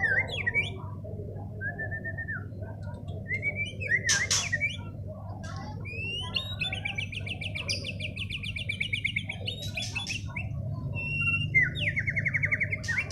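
White-rumped shama (murai batu) singing a varied song of clear whistled phrases and rapid trills, with a long fast trill in the middle and a shorter one near the end, over a steady low hum. It is a pancingan song, a lure used to make other shamas answer.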